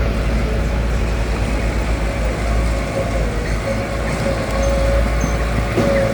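Heavy construction machinery running, a steady deep diesel rumble with a thin wavering whine over it; the pitch climbs briefly near the end.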